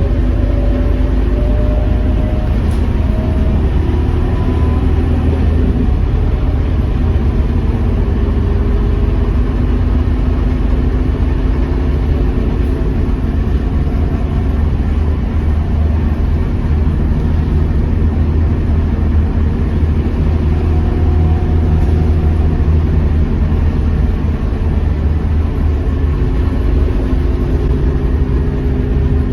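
Scania K230UB bus's five-cylinder diesel engine running on the move, a steady low drone whose engine note shifts up and down in pitch as the bus changes speed.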